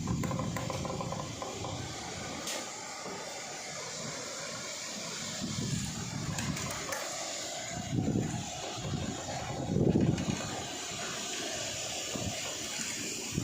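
Typhoon wind blowing with a steady hiss, with strong gusts buffeting the microphone about eight and ten seconds in.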